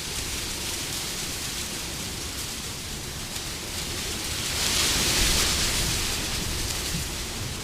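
Wind blowing steadily, swelling into a stronger gust about five seconds in and then easing off.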